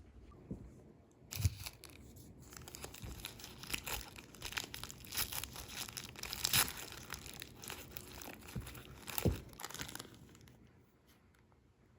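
Something crinkled and crumpled close by, like packaging being handled, in a dense run of crackles and small clicks. It starts about a second and a half in and dies away near the end.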